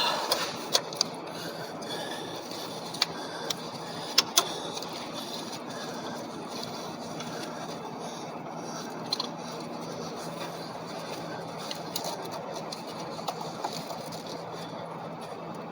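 Scattered light clicks and knocks of hand work on an engine as a valve cover is fitted and pressed down onto the cylinder head, over steady background noise.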